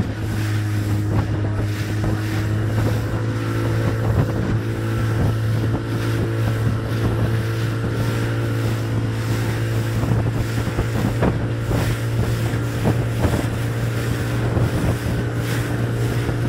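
Evinrude 40 H.O. outboard motor running steadily at constant throttle as the boat moves, with water splashing against the hull and wind buffeting the microphone.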